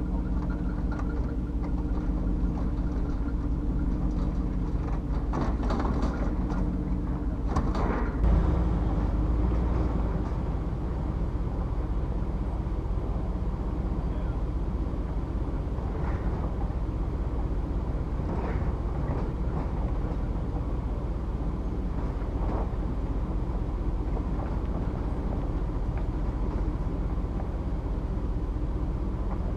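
A pickup truck driving, with a steady low engine drone and road rumble and a louder jolt about eight seconds in.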